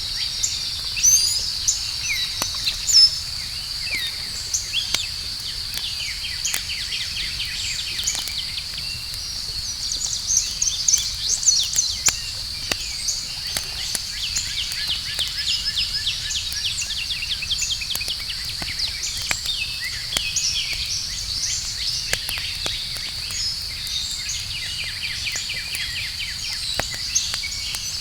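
Campfire crackling, with scattered sharp pops, over a steady high insect drone and frequent short bird chirps.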